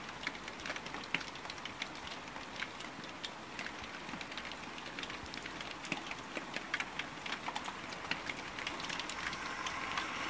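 Steady rain, with a dense scatter of individual drops ticking irregularly.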